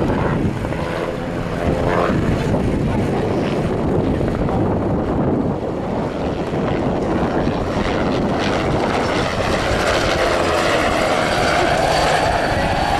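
Agusta Bell 206B helicopter flying a display, its turbine engine and two-blade rotor running loud and steady, with a tone that swells in the last few seconds.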